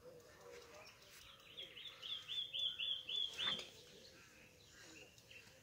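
A small bird singing from the pond-side trees: a quick run of about ten short, identical high notes lasting a little over two seconds, starting about a second in.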